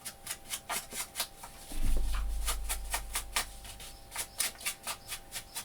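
Distress ink (Vintage Photo) dabbed repeatedly along the edges of a paper tag: quick light taps, about three or four a second. A low rumble runs for about a second and a half from about two seconds in.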